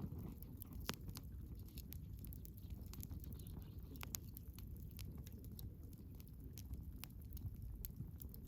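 Wood fire burning, with irregular sharp crackles and pops over a low steady rumble; one louder pop about a second in and another at the very end.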